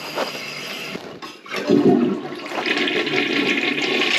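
Toilet being flushed: about a second and a half in, water starts rushing into the bowl and keeps swirling and draining. This is a test flush of a 3-gallon toilet with a weak flush, which the plumber suspects is caused by something in the line.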